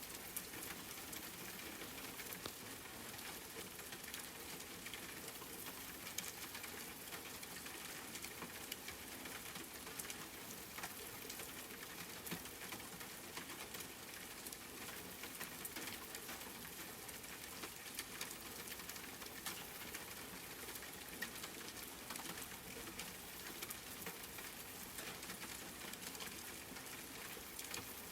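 Steady rain with many scattered drops tapping on a surface.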